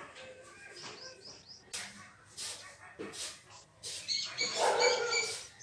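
A dog yipping and whimpering, with short sharp sounds throughout and the loudest, longest call about four to five seconds in.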